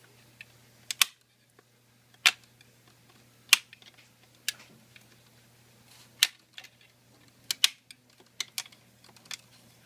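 Sharp clicks at irregular intervals, about ten in all, some in quick pairs, as a prying tool works along the snap-fit clips of a Samsung Series 7 ultrabook's casing and the clips pop free.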